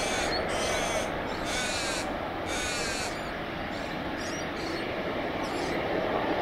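A bird calling: three harsh, drawn-out calls about a second apart, then fainter calls, over a steady background rumble of aircraft engine noise.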